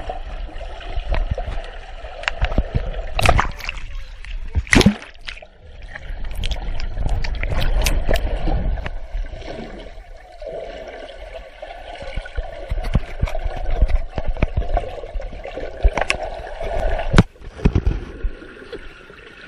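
Pool water splashing and sloshing close to the microphone, with several sharp knocks scattered through.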